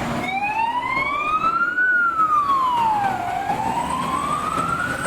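Fire-engine siren wailing: one tone slowly rising and falling, about one rise and fall every three seconds.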